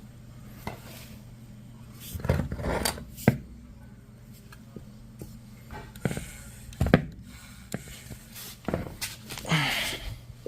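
Irregular metallic knocks and clanks of parts and tools being handled while working on a washing machine, about eight separate strikes with a scraping rattle near the end, over a low steady hum.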